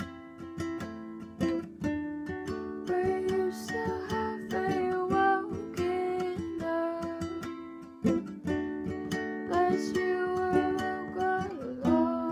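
Music: a plucked string instrument playing chords with a rhythmic pick or strum, and a melody line moving above it.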